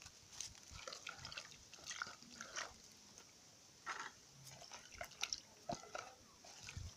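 Vegetables being washed by hand in a basin of water: faint, irregular small splashes and knocks, with a few sharper ones about four to six seconds in.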